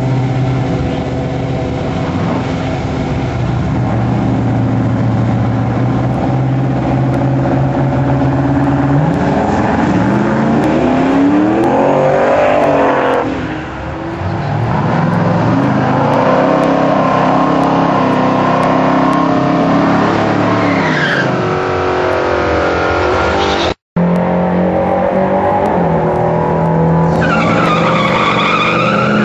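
Turbocharged 383 Windsor stroker V8 of a 1995 Ford F-150 Lightning pickup running, steady at first, then rising and falling in pitch as it is revved or driven up through the gears, with a sudden cut partway through. Near the end a high rising whine comes in over the engine.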